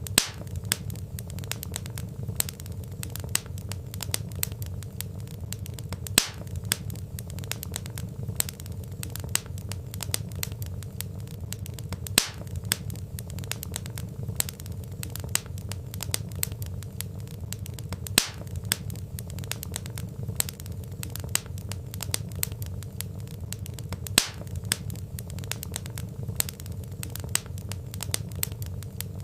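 Wood fire crackling: logs popping and snapping in quick, irregular clicks over a low steady rumble, with a louder pop about every six seconds.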